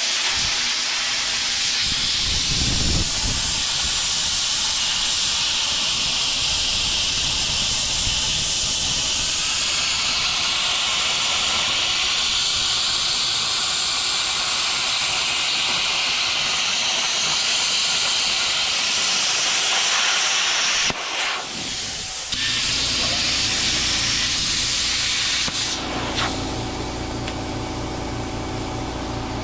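Arc welding on steel: a loud, steady hiss of the welding arc, with a short break about two-thirds of the way through. In the last few seconds a low steady motor hum runs underneath.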